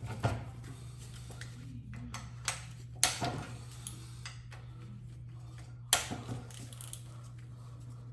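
Metal tools and parts of a Graco airless paint sprayer clinking and knocking while it is taken apart: a few sharp knocks, the loudest about three and six seconds in, over a steady low hum.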